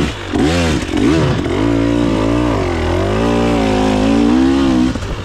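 2024 KTM 300 XC-W single-cylinder two-stroke dirt bike engine under way on a trail. It blips up and down quickly a few times, then pulls in a longer run that wavers in pitch and eases off near the end.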